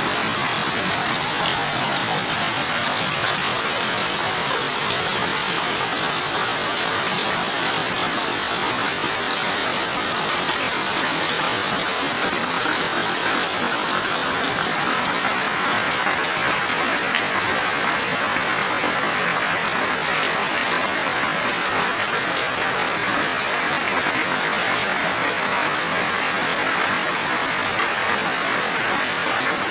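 Heavy rain falling steadily on leaves, ground and roofs: a dense, even hiss.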